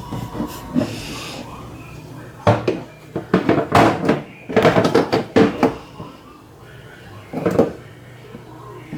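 Washing machine parts clattering and knocking as they are handled, in a dense run of rattles starting about two and a half seconds in and one short burst near the end.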